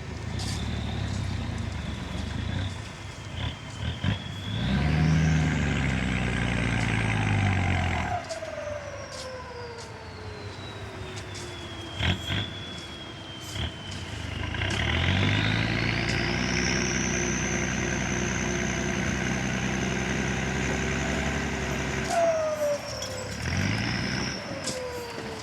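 A heavy earthmoving machine's diesel engine revving up twice, about four seconds in and again around fourteen seconds, holding high for several seconds each time before easing off. A high whine climbs with the revs and slowly glides down afterward, and a few sharp clanks punctuate it.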